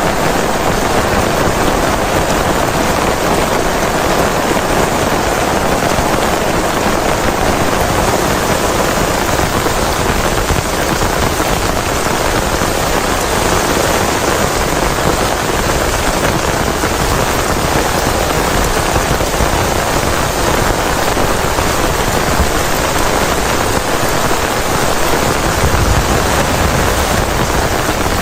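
Heavy rain falling steadily: a dense, unbroken hiss of drops.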